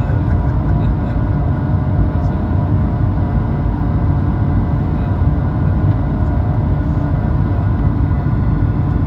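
Airliner jet engines running steadily at take-off or climb power: an even, loud rumble with several steady whining tones above it.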